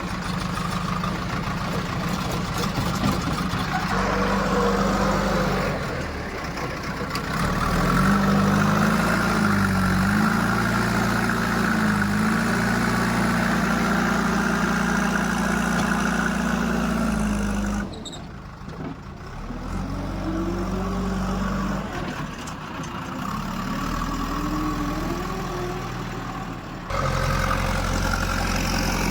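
Heavy diesel machinery engine running, rising in pitch about eight seconds in and holding there, then dropping suddenly and changing abruptly again near the end.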